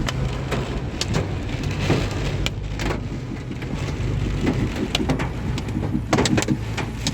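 Heavy rain with hail hitting a moving car, heard from inside: a steady rush of rain with sharp, irregular hits of hailstones, over the low rumble of the car on the road.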